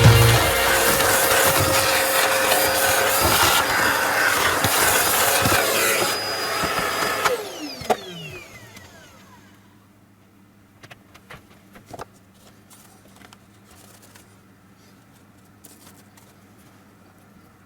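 An electric motor, from a power tool or vacuum, runs steadily, then is switched off about seven seconds in and its pitch falls as it spins down. A few small clicks and knocks follow.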